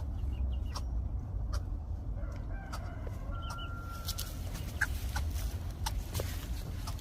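Short bird calls with scattered clicks over a steady low rumble.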